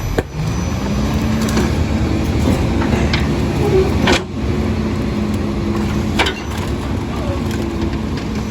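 Split-body garbage truck's diesel engine revving up in the first second or so and holding a steady high rev to drive the packing hydraulics, with three sharp bangs from the packer and trash.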